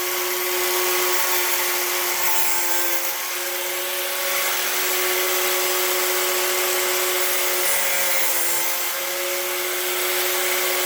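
A high-speed electric motor tool running steadily and loudly, a constant whine over a rushing hiss.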